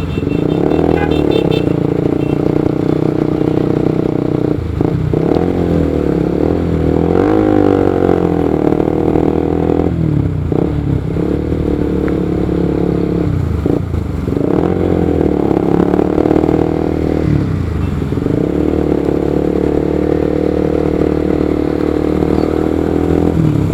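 Motorcycle engine running while riding, its pitch holding steady for several seconds at a time, with brief dips in its note four times.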